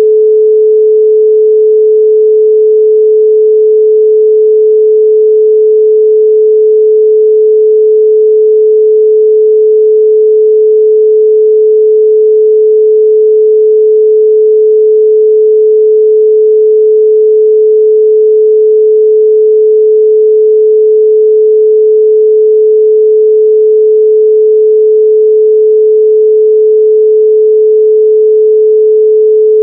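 A loud, steady 432 Hz pure sine tone: one unchanging pitch with no overtones.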